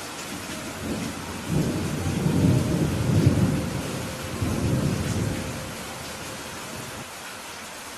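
Steady rain hiss with a low rumble of thunder that rolls in about a second and a half in, swells for a few seconds and fades out after about six seconds.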